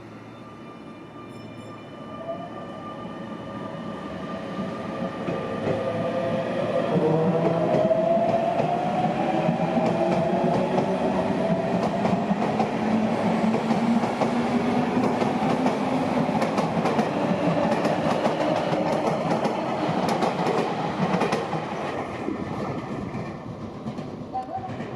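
Sagami Railway 8000-series electric train running along the platform: the traction motors whine, rising steadily in pitch over several seconds, and the wheels clack over the rail joints. It grows loud, then eases off near the end.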